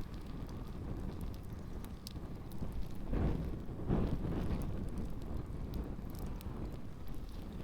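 Campfire burning with shoes on it, small crackles and pops over a steady low rumble of wind on the microphone, which swells a few seconds in.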